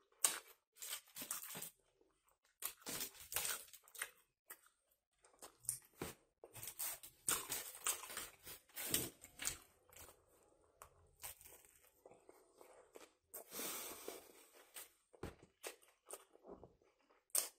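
Close-up chewing and eating sounds of a kebab sandwich and fries: faint, irregular bursts of mouth noise with short pauses between them.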